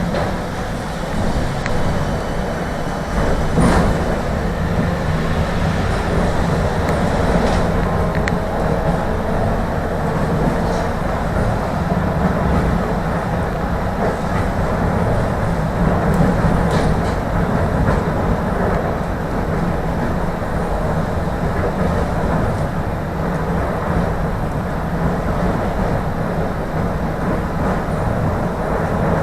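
Tram running along its track: a steady rumble of wheels on rails and running gear, with a few sharp clicks scattered through it.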